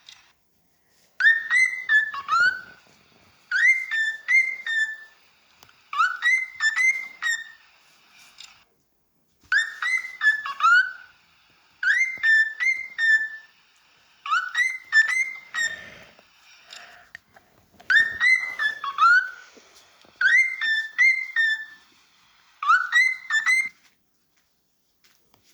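Cockatiel whistling the same short warbled phrase over and over, about every two seconds, as in a mating display. The phrases stop shortly before the end.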